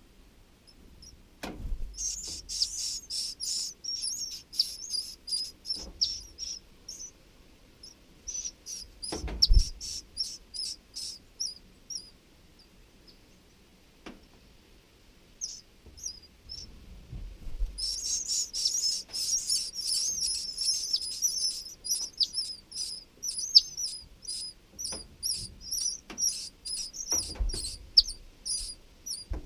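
Baby flycatchers in the nest chirping rapidly and high-pitched, in two long excited bouts with scattered chirps between. A few low thumps come through, one loud one about nine seconds in.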